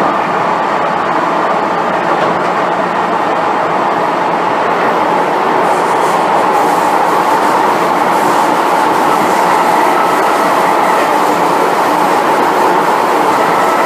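MTR M-Train electric multiple unit heard inside the passenger car while running: a steady loud rush of wheel and rail noise with faint whining tones, turning brighter and hissier about six seconds in.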